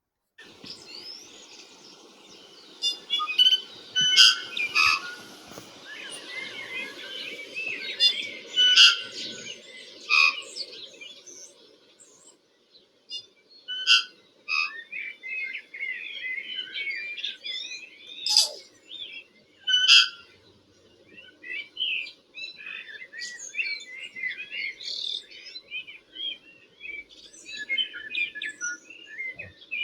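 Tui singing: irregular phrases of varied notes, whistles and sharp clicks, the loudest clicks about four, nine, fourteen, eighteen and twenty seconds in. A steady low hum runs underneath.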